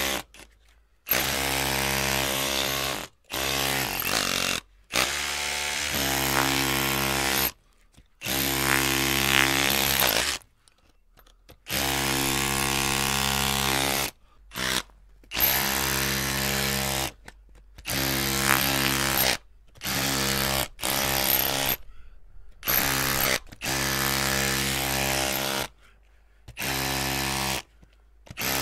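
Electric drill motor running in repeated bursts of one to three seconds, stopping and starting again about a dozen times with short silent gaps between runs.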